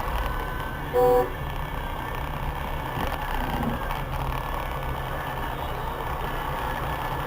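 Steady traffic and engine noise in city traffic, with one short, loud vehicle horn beep about a second in.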